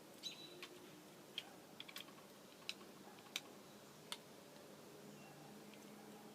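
A spoon clicking and tapping against cookie-cutter forms as a birdseed and gelatin mixture is spooned in and pressed down: about seven or eight sharp, scattered taps over the first four seconds.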